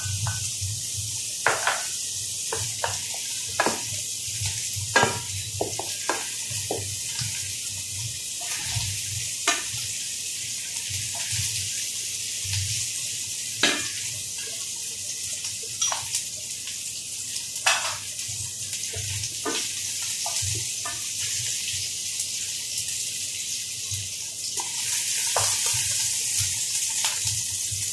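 Spring onion and garlic sizzling in hot oil in a pan, with a utensil knocking against the pan every so often as they are stirred. The sizzle grows louder near the end.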